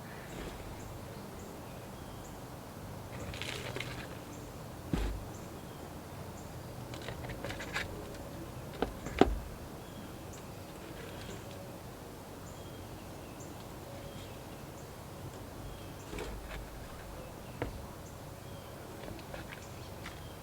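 Outdoor ambience with faint, short bird chirps repeating throughout, over a steady low hum. Now and then there is a rustle and a few sharp knocks from handling plant pots and soil, the loudest a single knock about nine seconds in.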